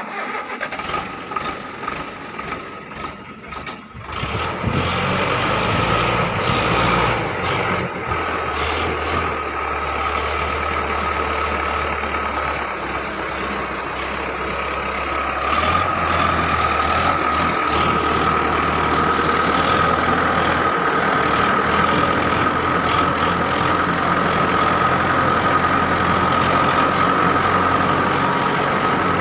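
Farm tractor engine running: uneven for the first few seconds, then steady from about four seconds in, rising in pitch and loudness about sixteen seconds in. A steady high whine runs over it.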